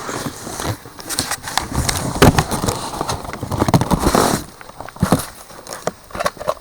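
Cardboard boxes and packing being handled and opened: rustling and crinkling with a string of sharp knocks and clicks, loudest about two seconds in and again around four seconds.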